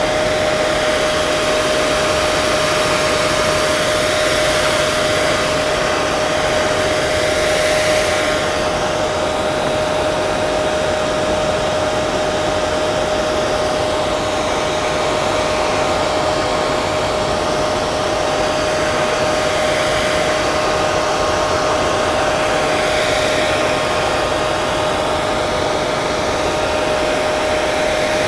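Handheld hair dryer running steadily: a constant rush of blown air with a steady motor whine.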